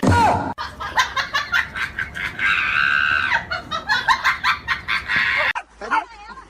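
Noisy animal commotion: harsh squawking calls over rapid clattering, with one long harsh call in the middle. It cuts off sharply about five and a half seconds in, and fainter wavering calls follow.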